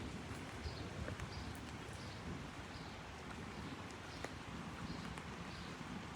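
Rain pattering steadily on an umbrella, with scattered sharp drop ticks, and footsteps on wet pavement at a walking pace of about two steps a second.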